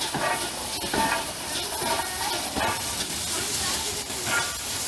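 Pannier tank steam locomotive hissing steam steadily, with indistinct voices in the background.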